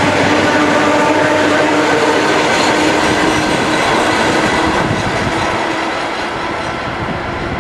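Suburban electric multiple unit running on the rails: a loud, dense rush of wheel and running noise with steady whining tones through it, easing off a little over the last few seconds.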